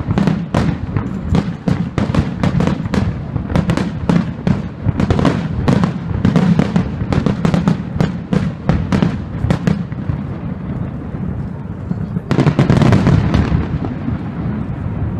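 Aerial fireworks display, shells bursting in rapid succession with many sharp bangs a second for most of the stretch. The bangs thin out for a couple of seconds, then a dense loud volley comes near the end.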